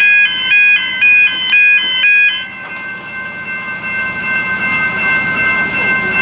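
Electronic warning signal beeping back and forth between two pitches, about two and a half changes a second, breaking off about two and a half seconds in; a fainter steady chord of tones goes on after it.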